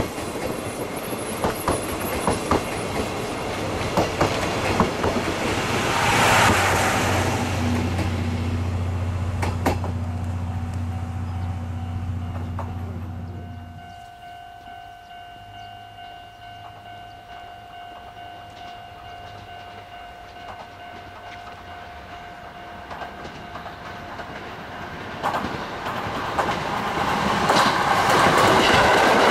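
Chichibu Railway passenger coaches running past, their wheels clicking over the rail joints. The train noise dies away about halfway through, leaving a faint steady ringing tone for several seconds. A second electric train then approaches, growing loud near the end.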